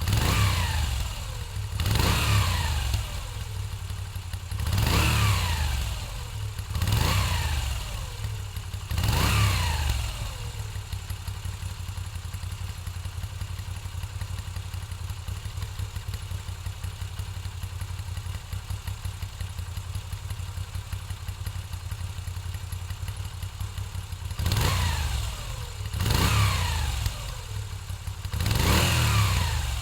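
A stock 2021 Moto Guzzi V7 850's air-cooled 853 cc transverse V-twin being revved through its original exhaust: five quick throttle blips, each falling back to idle, then about fourteen seconds of steady idle, then three more blips near the end.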